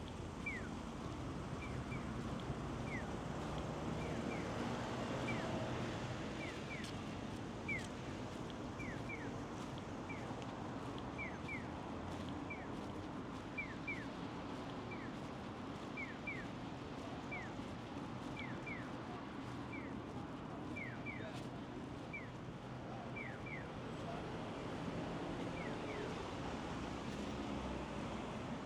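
Riverside ambience: a steady rush of flowing river water, with a short high chirp repeated, often in pairs, about once a second.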